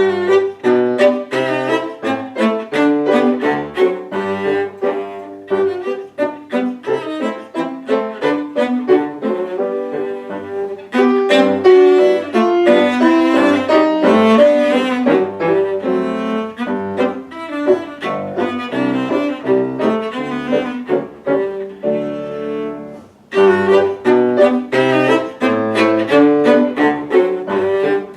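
Cello and piano playing a lively classical piece in quick, detached notes. It begins abruptly after silence, with a brief break about three-quarters of the way through.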